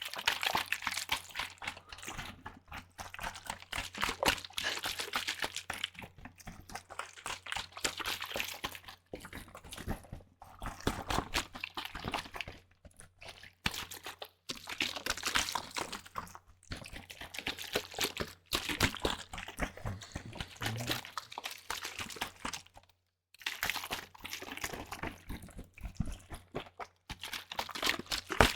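Vinegar-and-water in a plastic spray bottle, handled close to the microphone: repeated crackly bursts of liquid sound, each a second or two long, with short pauses between.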